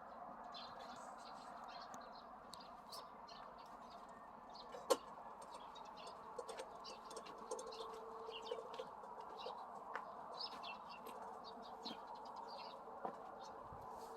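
Small birds chirping, many short high calls scattered throughout, over a steady background noise. A single sharp click about five seconds in.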